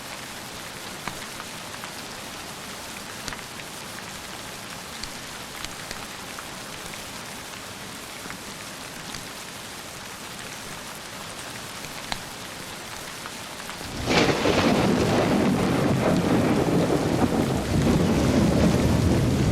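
Steady rain with scattered light drips. About fourteen seconds in, a loud thunderclap breaks and rolls on as a deep rumble.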